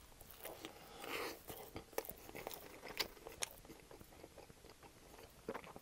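A person bites into a soft-bun triple cheeseburger and chews it with mouth closed. The chewing is faint and wet, with a few sharp mouth clicks scattered through it.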